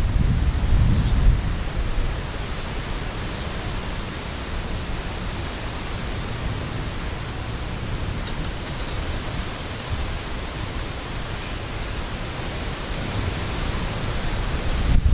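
Steady rushing noise of heavy thunderstorm rain, with low rumbles of wind gusting on the microphone near the start and again near the end.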